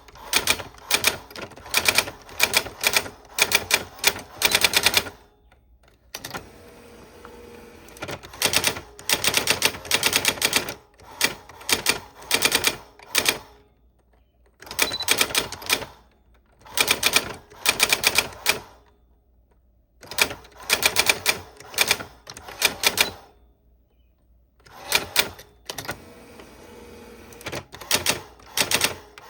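Old typewriter being typed on: bursts of rapid, sharp keystroke clacks lasting a few seconds each, separated by short pauses, with stretches of softer mechanical rattling between some bursts.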